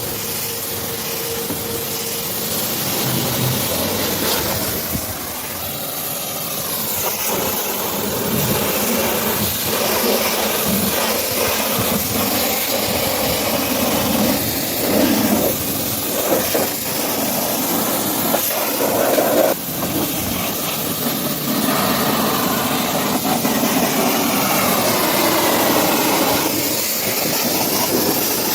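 High-pressure washer spraying water onto a truck: a continuous loud hiss whose tone keeps shifting as the jet moves over the surfaces.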